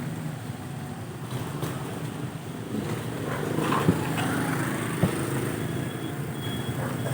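A motor vehicle engine running steadily, with two sharp knocks about four and five seconds in.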